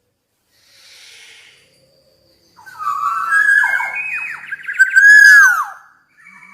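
Black-naped oriole singing. After a quiet first two seconds, one loud phrase of whistled, gliding notes runs for about three seconds and ends in falling slurs.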